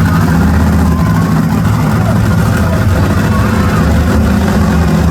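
Monster truck engine running loud and steady, a deep continuous drone with no breaks.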